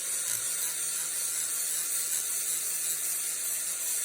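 Angle grinder fitted with a polishing disc, running steadily against the steel head of a claw hammer: an even, high hiss from the disc on the metal.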